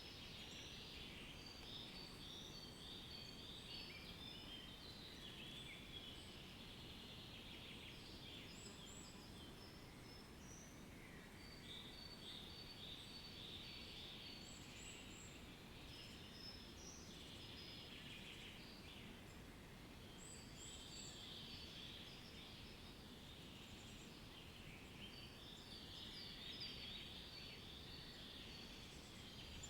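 Faint ambience of many small birds chirping at once, short overlapping high calls coming continuously, over a steady low background rumble.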